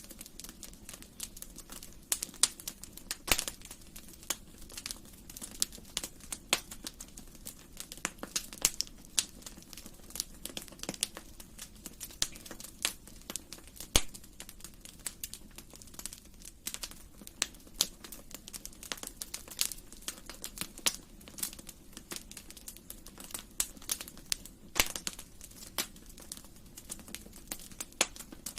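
Wood fire crackling in a fireplace: many sharp, irregular pops and snaps over a low steady rumble of the burning.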